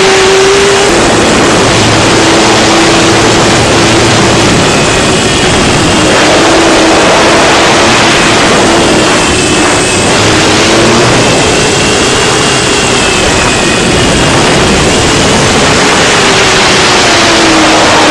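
Six-inch FPV quadcopter's motors and propellers whining, their pitch drifting up and down with the throttle, under a loud rush of wind noise.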